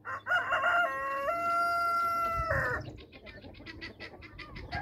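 A rooster crowing once: a long call that steps up in pitch, holds steady and drops off about two and a half seconds in. Faint, fast ticking follows.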